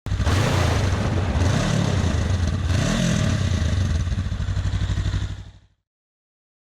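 Motorcycle engine running with a rapid low pulse, revved up and back down twice, then fading out.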